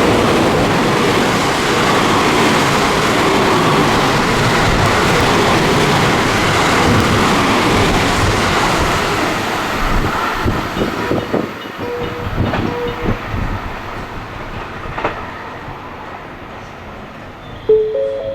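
An electric train passing through the station at speed: a loud, steady rush of wheels and cars that fades after about ten seconds into separate clacks of wheels over rail joints as the last cars go by.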